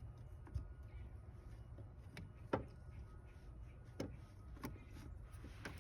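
Scattered sharp clicks and knocks from working on a car's radiator hose connections with hand tools, about six over several seconds, the loudest about two and a half seconds in, over a low steady hum.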